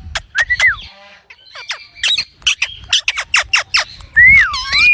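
Green parrot calling. A short whistled note comes near the start, then a rapid run of sharp clicking squawks, then a longer whistle that dips and rises again near the end.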